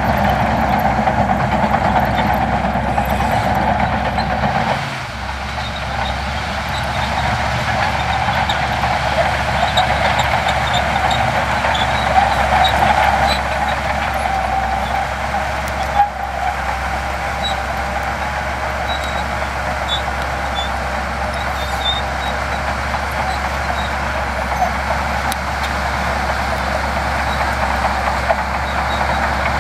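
Heavy diesel earthmoving machinery running steadily under work; the sound dips and changes briefly about five seconds in, and there is a single sharp knock about sixteen seconds in.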